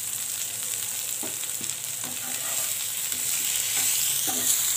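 Sliced vegetables (pointed gourd, potato, carrot, tomato) sizzling as they fry in oil in a non-stick frying pan, stirred and scraped with a spatula. The sizzle grows louder near the end.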